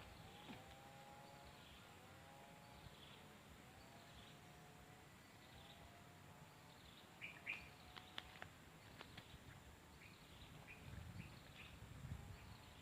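Faint outdoor quiet with a bird calling over and over: short, nearly level calls about a second apart, with a few higher chirps and sharp clicks around the middle.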